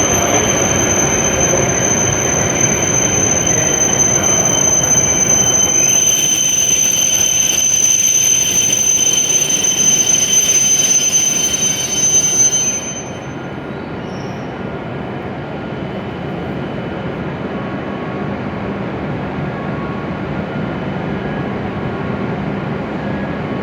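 W7 series Shinkansen train braking into the platform with a steady high-pitched squeal over a rumble, coming to a stop about 13 seconds in. After that only the stationary train's equipment hum remains.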